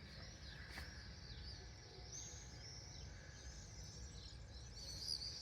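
A flock of small birds calling faintly, with many short, overlapping high chirps.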